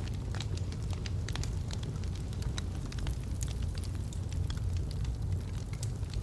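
Wood fire burning in a fireplace: a steady low rumble with irregular sharp crackles and pops from the logs, several a second.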